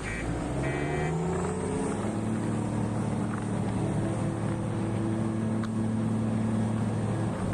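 Large diesel engine of heavy mining equipment revving up over the first two seconds, then running steadily under load. Two short high beeps sound near the start.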